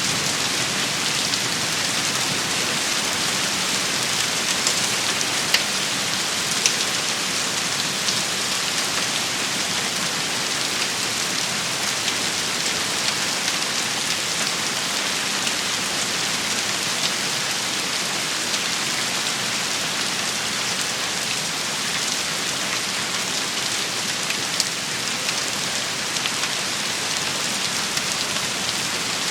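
Steady rain shower falling on hard surfaces, an even hiss with a few louder, sharp drop taps standing out now and then.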